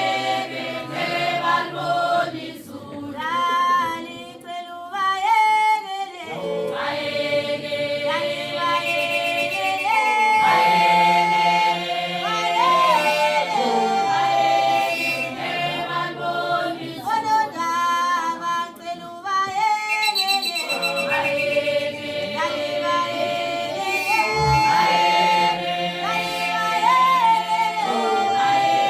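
A group of voices singing together in harmony, unaccompanied, over a held low note, with the phrases rising and falling.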